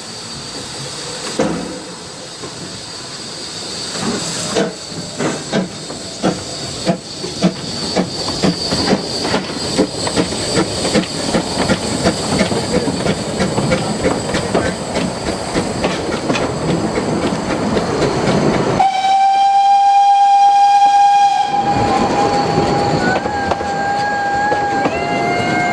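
Narrow-gauge steam locomotive working along the line, its rapid exhaust beats and wheel clatter growing louder. About two-thirds of the way through, a loud steam whistle sounds for about three seconds, then fades off in a weaker tail.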